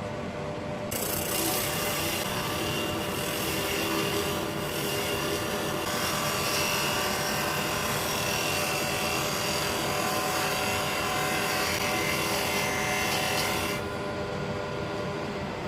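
Bowl gouge cutting burr elm on a running wood lathe: a loud, steady hissing cut that starts about a second in and stops sharply near the end, over the constant drone of the lathe and dust extraction.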